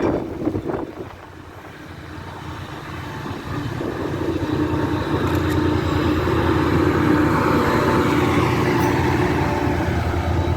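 Class 68 diesel-electric locomotive approaching: its engine runs steadily and grows louder over the first few seconds, with rail and wheel noise.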